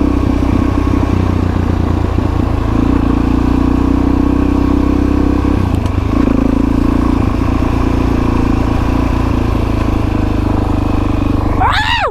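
Dirt bike engine running steadily at low speed, easing off briefly about halfway through before picking up again.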